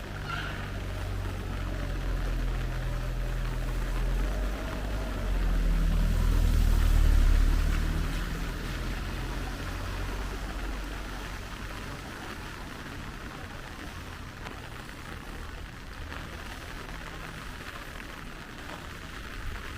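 A vehicle's low engine hum passing close, swelling to its loudest about six to eight seconds in and then fading away, over a steady hiss of rain.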